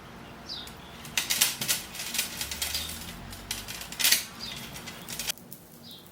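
Small beads rattling and clicking against one another and a hard container while being handled or poured, stopping abruptly a little after five seconds in. Short chirps of a songbird are heard now and then in the background.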